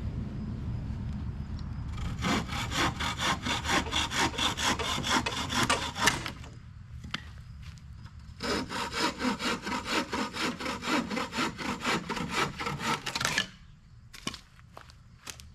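Hand saw cutting through wood in quick back-and-forth strokes, about three a second, in two runs with a short pause between and stopping near the end. A low rumble comes before the sawing starts.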